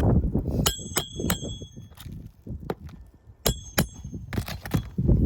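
Hammer blows on metal with a bright ringing ting: three quick strikes about a second in, then two more past the middle, amid duller knocks and scuffing.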